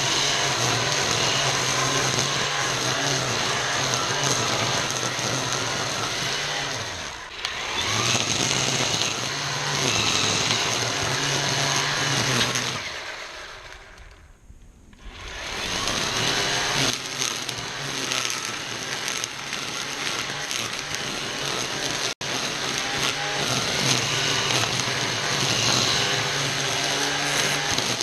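ECHO 58-volt battery string trimmer running at speed, its spinning line hissing as it cuts through tall weeds and grass. The motor eases off briefly about seven seconds in. Around halfway it winds down almost to a stop, then spins back up to full speed.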